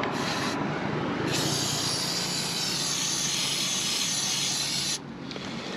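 Aerosol chain lube spraying onto a dirty motorcycle chain: a short hiss, a brief pause, then a longer hiss of about four seconds that cuts off suddenly.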